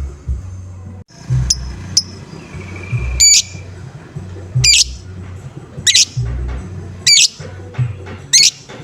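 A lovebird gives its harsh 'ngoek' call, the kind lovebird keepers play to trigger their birds. Five loud squawks each sweep steeply downward, about one every second and a quarter, over a steady low music beat.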